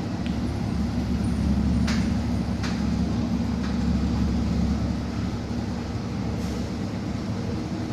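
Inside a moving city bus: the engine and drive running with a steady low hum, and a couple of short sharp rattles about two seconds in.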